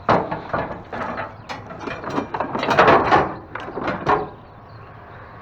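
Rattling and clattering of hard objects being pulled out and handled, a dense run of irregular clicks and knocks that dies down about four seconds in.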